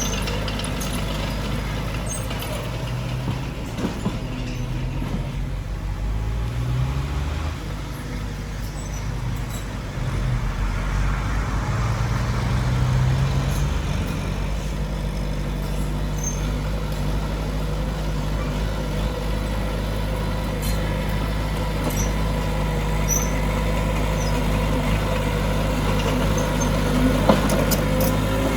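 Heavy diesel engine of earthmoving machinery running steadily, its pitch rising briefly twice, about six and about twelve seconds in.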